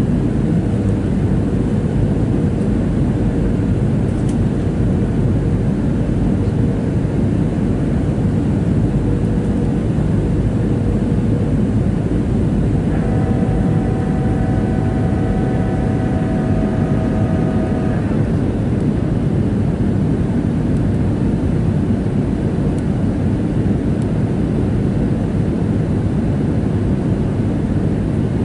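Steady cabin noise of a Boeing 737-700 airliner: the dense, even rumble of its CFM56 jet engines and the airflow, heard from a window seat. About halfway through, a set of thin steady whining tones sounds over it for roughly five seconds, then stops.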